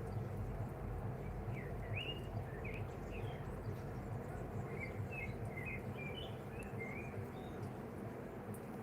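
Steady rain falling, with a small bird chirping a string of short, quick high notes through the middle.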